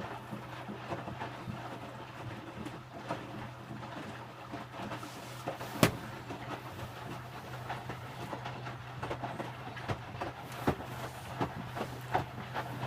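Electrolux W455H commercial washing machine tumbling towels in its prewash: a steady motor hum under irregular clicks and clatter from the turning drum, with a sharp knock about six seconds in and another near eleven seconds.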